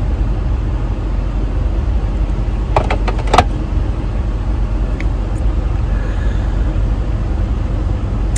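Steady low rumble of a car idling, heard from inside the cabin, with a short cluster of sharp clicks about three seconds in.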